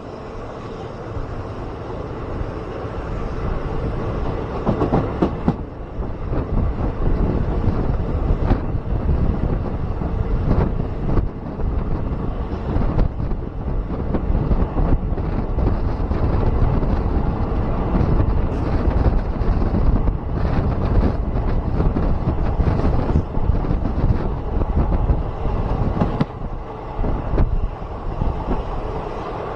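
Passenger train running along the track, heard from on board: a steady rumble of wheels on rails with scattered clacks.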